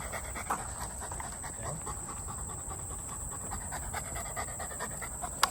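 Large dog panting quickly and steadily, hot and tired from a long training session. A single sharp click sounds just before the end.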